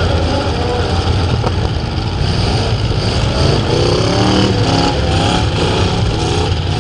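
Engines of several full-size pickup trucks and vans racing together, a loud steady drone with some revving.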